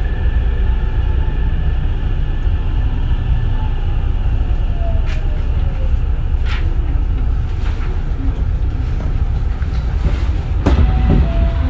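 Hankyu 9000 series electric train running, a steady low rumble of wheels on rail, with faint motor tones gliding down in pitch in the first few seconds. A sharp clack comes about ten and a half seconds in.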